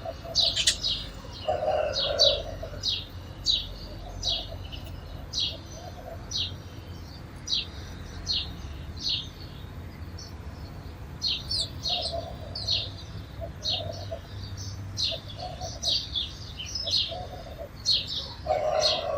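Sparrows chirping: short, sharp cheeps repeated one or two times a second, with occasional softer, lower calls mixed in.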